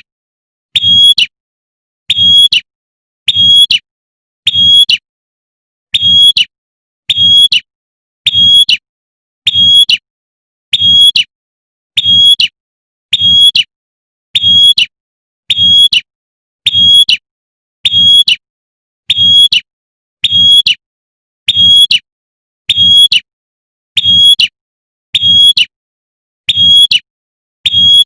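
A female prinia (prenjak) repeating its sharp, buzzy "tembakan" call at a very even pace, about one call every second and a bit, with silence between calls. The call is used as a lure to draw in males.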